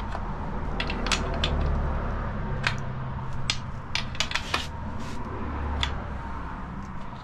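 Irregular light clicks and clinks of hand tools and metal parts being handled during valve cover work on a V8, several clustered about four seconds in, over a steady low hum.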